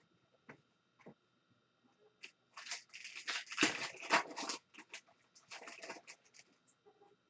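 Foil wrapper of a trading-card pack crinkling and tearing as it is opened by hand, in a dense run of crackles lasting about four seconds, after a few light clicks.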